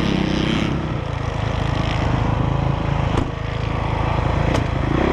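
Honda CRF450R dirt bike's single-cylinder four-stroke engine idling steadily, with two sharp clicks about three and four and a half seconds in.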